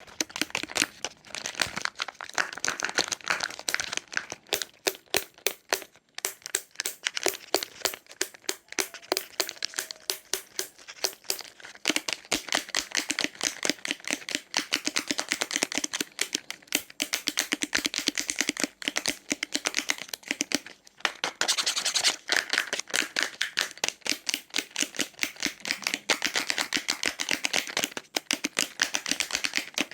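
Candy wrappers being crinkled and torn open as sweets are unwrapped: a dense run of sharp crackles and rustles that keeps going, with brief pauses.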